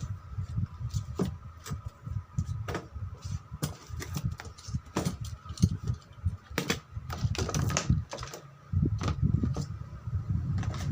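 Irregular clicks, taps and rustles of a toy remote-control off-road car being unboxed: cardboard and plastic packaging handled and pulled open.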